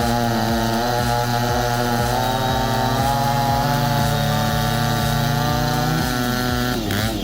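Chainsaw engine running flat out at a steady high pitch while cutting through wood, easing off and dropping in pitch near the end.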